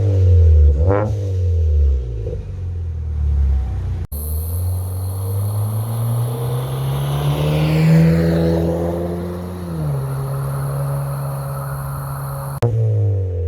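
Ford Fusion's exhaust through a 2.5-inch system with a Magnaflow glasspack and a resonator, blipped in a quick rev that falls back. After a cut, a longer pull follows: the exhaust note climbs steadily, peaks and drops back to a steady lower note.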